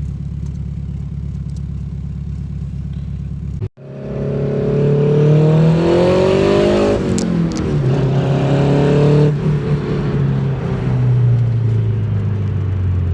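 Custom twin-turbo Honda Integra four-cylinder engine running at a steady speed. After an abrupt cut about four seconds in, it pulls hard with its pitch climbing, then drops back in steps as the revs fall, as in accelerating through the gears.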